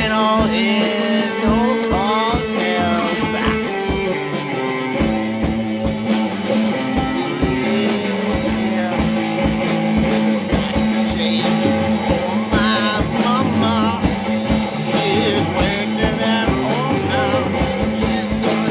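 Rock music with guitar and drums, an instrumental passage with a steady drum beat and sliding guitar notes.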